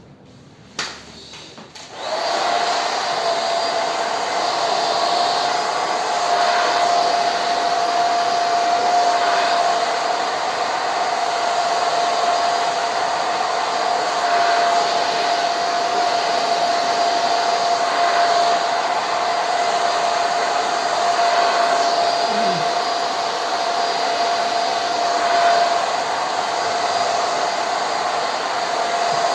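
Electric hair clippers, set to 0.8 mm, switched on about two seconds in after a click, then running with a steady high hum while shaving a head down to a buzz cut.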